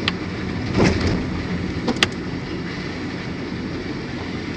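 Steady rumbling noise inside a car's cabin, with a few sharp clicks and a brief louder thump about a second in.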